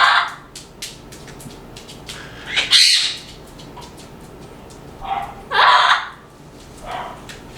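Pet parrots squawking: about five loud, harsh squawks spread across a few seconds, the loudest about three seconds in.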